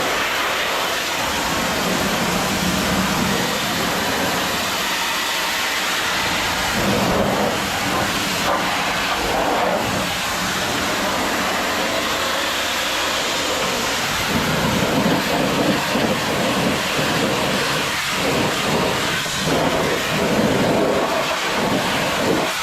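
Pressure washer wand blasting a hot-water rinse onto a truck tractor: a loud, steady hiss and spatter of spray on the truck, swelling a little now and then.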